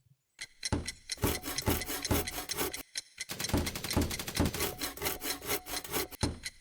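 Rhythmic back-and-forth rasping strokes of a hand tool cutting or scraping material, about four strokes a second, with a brief pause about three seconds in.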